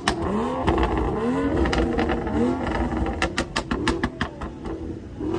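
Car engine revved in quick repeated blips, its pitch rising and falling about twice a second. A rapid run of sharp cracks comes about three to four and a half seconds in, and the sound fades near the end.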